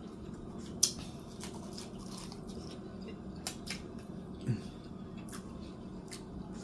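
Close-up eating sounds: chewing with scattered wet mouth clicks and lip smacks at an irregular pace, over a faint steady low hum.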